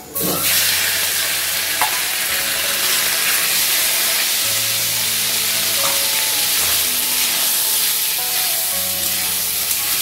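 Marinated chicken strips hitting smoking-hot oil in a metal kadai: a loud sizzle that starts suddenly and then keeps up steadily, with a couple of light spatula clicks against the pan.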